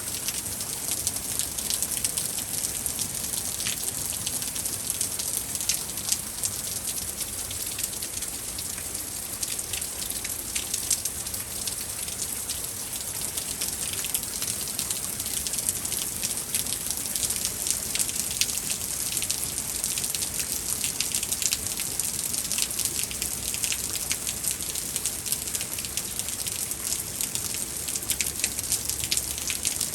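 Heavy rain falling steadily, a dense patter of drops striking surfaces with a constant crackling hiss.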